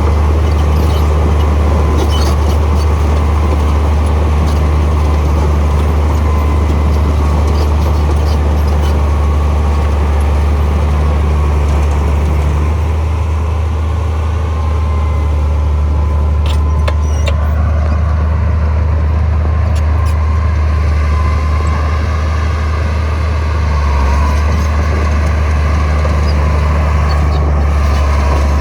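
Heavy diesel engine of earthmoving machinery running steadily with a deep low drone, and a few sharp metallic clanks about two seconds in and again midway.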